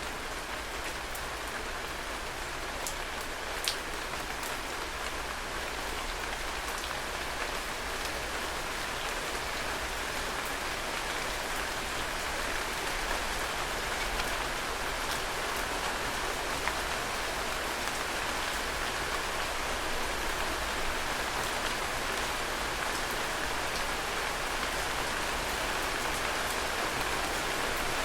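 Heavy rain falling steadily on hard surfaces, a dense even hiss with scattered sharper drop impacts, growing slightly louder over the stretch.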